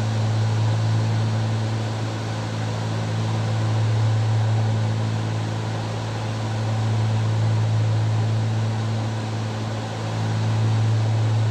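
Cessna 310Q's twin piston engines and propellers droning steadily in cruise, a deep even hum with a slow swell and fade every few seconds.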